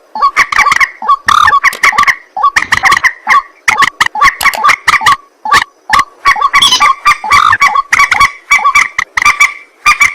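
Rail-family water birds calling at night, ruak-ruak and moorhen, in loud, rapid runs of short, harsh repeated notes that overlap without pause, as on a bird-call lure recording.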